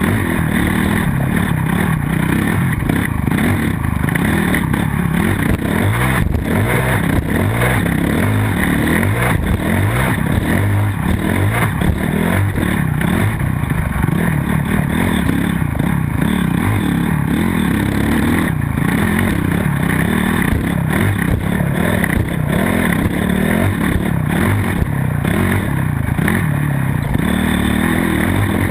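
Motocross dirt bike engine revving up and down continuously, with clatter and rattle.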